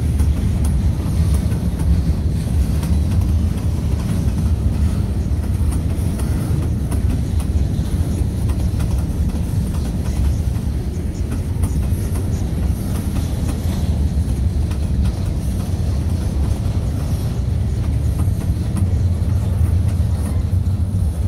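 Freight train of open gondola cars rolling slowly past: a steady low rumble of steel wheels on rail with scattered clicks as wheels cross rail joints.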